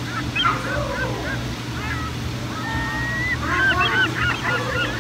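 Many short bird calls, rising-and-falling chirps and honks overlapping, growing busier about three and a half seconds in, over a low steady hum.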